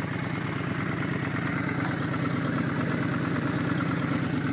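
Honda Shadow 600's carbureted V-twin engine idling steadily.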